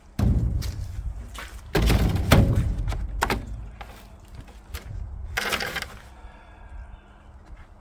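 A run of heavy thuds and knocks, with a short scraping rush about two thirds of the way through.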